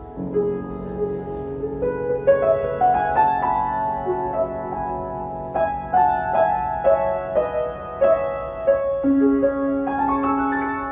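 Solo piano playing a slow, gentle melody over sustained low bass notes, with the melody climbing higher about two seconds in.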